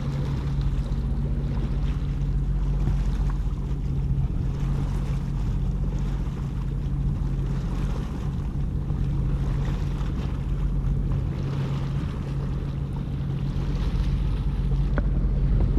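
Jet-ski engine running steadily with a low, even hum, with wind noise on the microphone over it.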